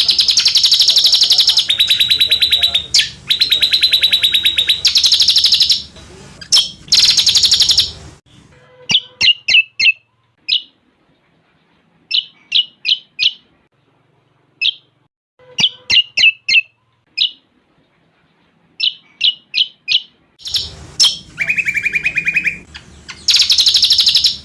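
Cucak combok songbird singing a song filled with cililin phrases: loud, fast high trills for the first eight seconds and again over the last four. In between come scattered short, sharp chirps.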